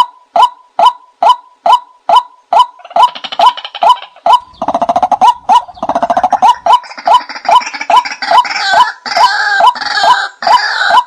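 Nok kai na bird calls played as a hunting lure: short clipped notes repeated about two and a half times a second, joined about four seconds in by a fast rattling trill and then by a second, overlapping run of richer calls.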